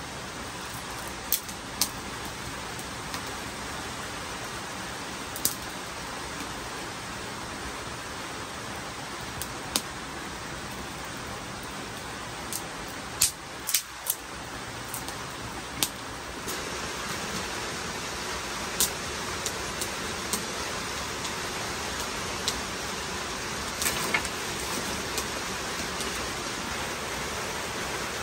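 Steady rain falling, with scattered sharp ticks; the rain gets a little louder about halfway through.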